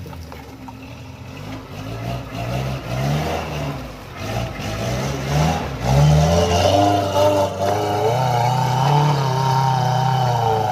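Suzuki Vitara 4x4's engine revving in short blips that rise and fall, then held at higher revs and louder from about six seconds in, wavering as it pulls under load up a steep dirt climb.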